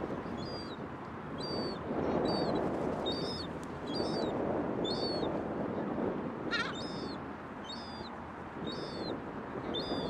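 High whistled bird call repeated about once a second over a steady rushing background, with one brief falling call about two-thirds of the way through.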